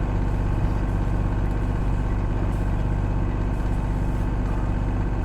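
A sailing yacht's inboard engine running steadily under way, a constant low drone.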